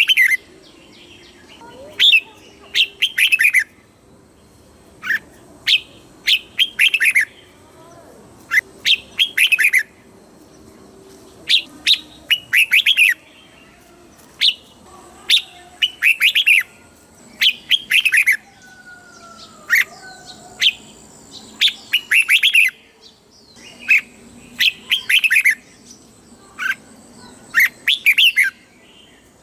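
Red-whiskered bulbul singing: short, quick phrases of sharp falling whistled notes, repeated every second or two with brief pauses between.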